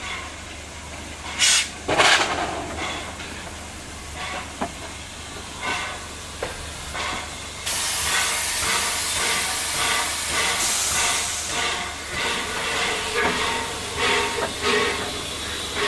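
Steam locomotive venting steam: a steady hiss starts about eight seconds in, after two short, loud bursts of noise near the start and scattered knocks.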